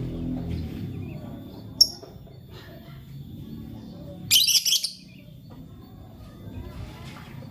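Lovebird chirping: one short high-pitched chirp about two seconds in, then a quick burst of several loud chirps around the middle.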